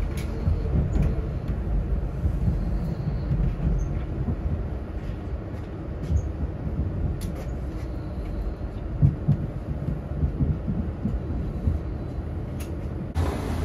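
Interior sound of an ÖBB 4024 Talent electric multiple unit pulling slowly into a station: a steady low rumble of wheels and running gear, with a few sharp clicks from the track, easing slightly as the train slows.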